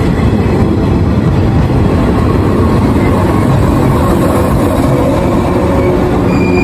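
JNR 115 series electric multiple unit pulling into the platform, with a steady rumble of its wheels and running gear as the cars roll slowly past. A thin high squeal creeps in near the end as it brakes to a stop.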